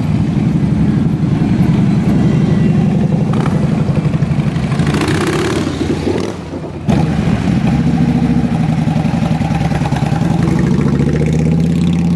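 Motorcycle engines running, with the pitch rising and falling. Just past halfway the sound drops briefly, then comes back abruptly.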